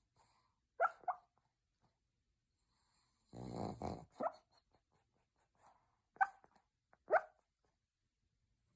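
Sleeping pug snoring: one longer rattly snore about three seconds in, and short high squeaky snorts, two together near the start and single ones later.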